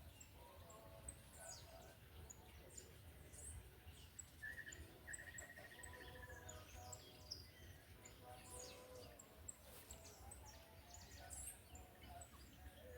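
Faint birdsong from several birds: repeated short high chirps and whistles, with a brief trill about five seconds in, over a low steady rumble.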